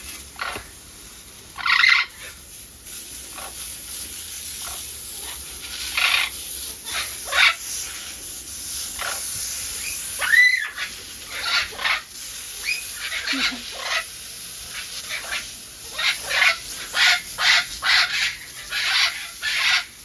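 St Vincent parrots (Amazona guildingii) calling with short, harsh, irregular squawks, coming closest together over the last few seconds.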